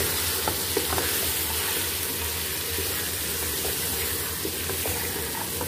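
Chicken pieces, onion and ground spices sizzling in hot oil in a metal pot while a wooden spoon stirs them, a steady frying hiss with a few light clicks in the first second.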